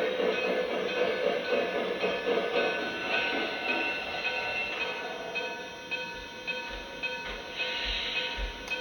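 Lionel Legacy Russian Decapod O gauge model steam locomotive running on the layout track, its wheels and motor rumbling; the rumble fades over the first six seconds as it draws away.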